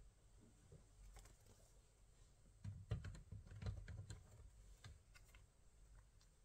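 Faint scattered key clicks of typing on a keyboard, busiest about three to four seconds in.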